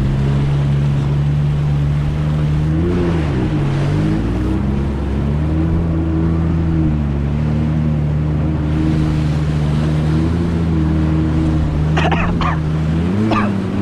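Jet ski engine running steadily at low, no-throttle speed, moving slowly through the harbour. Its pitch dips and comes back up about three seconds in and again near the end.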